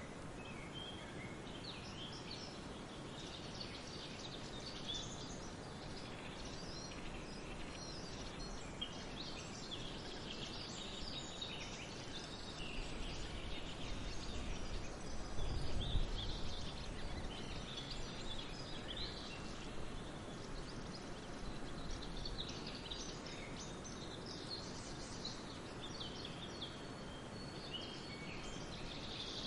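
Many birds chirping in quick overlapping calls over a steady background hiss, with a low rumble swelling and fading about halfway through.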